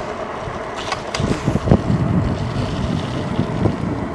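Wind buffeting an unshielded microphone on a moving moped, the gusts growing heavier about a second in, over the steady running of the Jansno X50's small engine.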